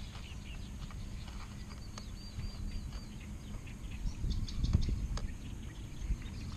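A bird gives a short warbling call about two seconds in, over a steady low rumble. Scattered light clicks and knocks run throughout, heavier about four to five seconds in.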